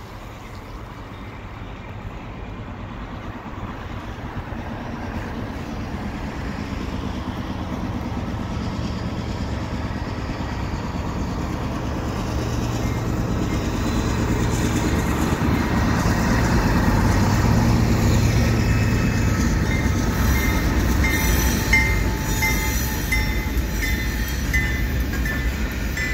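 Three GE C44-9W diesel-electric locomotives approach and pass, their engines' deep drone growing steadily louder until the units go by about two-thirds of the way through. Freight cars then roll past on the curve with short, repeated high-pitched squeals from the wheels.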